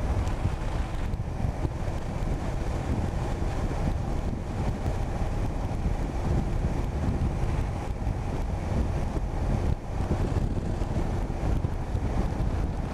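Wind rushing over the microphone of a moving motorcycle, with engine and road rumble running steadily underneath.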